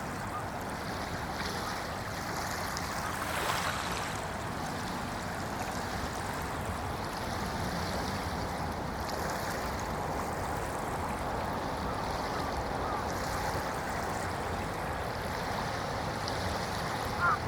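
Small waves lapping gently on a shallow bay beach at low tide: a soft, steady wash with one slightly louder wave about three and a half seconds in.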